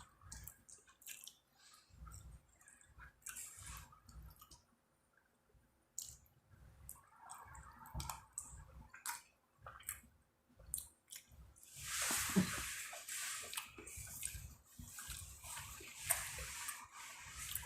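Close-up chewing of a creamy seafood and chicken alfredo pasta: rhythmic chewing with wet, smacking mouth clicks. From about twelve seconds in there is a louder stretch of wet mouth noise.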